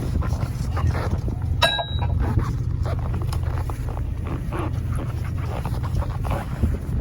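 Diesel truck engine idling with a steady low hum, under irregular crunching and clicking sounds. A brief, rapid metallic rattle with a ringing tone comes about a second and a half in.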